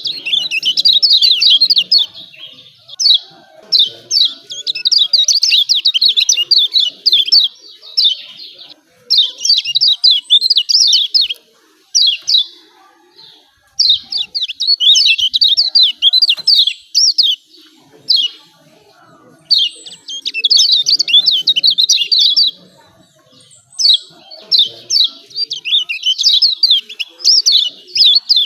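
Kecial kuning, the yellow white-eye of Lombok, singing its rapid chattering 'ciak ciak' song in loud bouts of about two to three seconds with short pauses between them.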